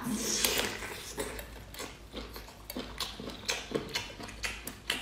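Eating sounds: irregular wet smacks and clicks of biting into and chewing a soft filled wrapper dipped in chili sauce.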